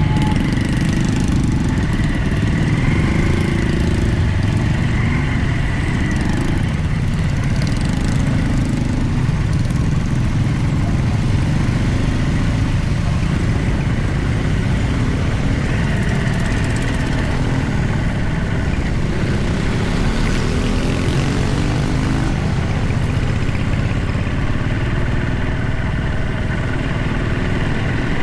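A vehicle's engine running steadily, a loud low rumble that goes on without a break.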